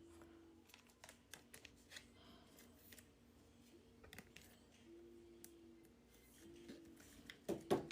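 Faint handling of trading cards, with a few scattered light clicks and a short run of louder clicks and slides near the end.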